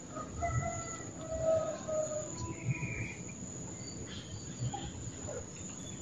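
A small songbird calling in short whistled notes, a quick run in the first two seconds and one more about a second later, over a steady high-pitched insect drone.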